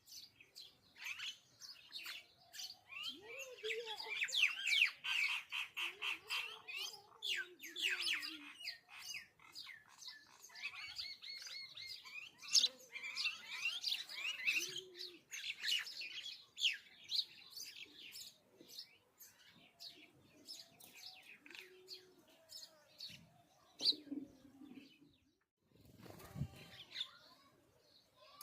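Small birds chirping busily, many quick overlapping chirps in two dense spells, thinning out in the last third.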